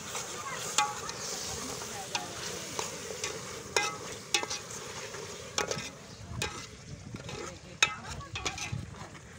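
Tomatoes, onions and ginger-garlic paste frying in oil in a metal pot, sizzling, while a steel ladle stirs and clinks sharply and irregularly against the pot.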